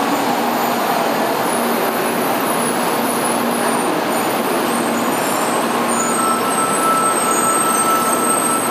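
N700-series Shinkansen train rolling slowly into the platform and braking to a stop: a steady rumble and hiss from the wheels and running gear. A faint high steady tone comes in about six seconds in.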